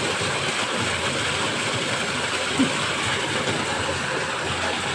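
Steady rushing of water gushing into a well from underground springs that have just opened.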